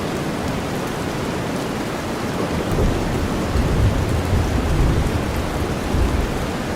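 Steady rain hiss blended with deep white noise, with a low rumble of thunder rolling in about three seconds in and fading out about a second before the end.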